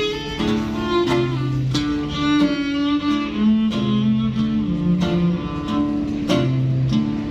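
Live acoustic band playing an instrumental tune: long held notes, string-like, over regularly strummed chords.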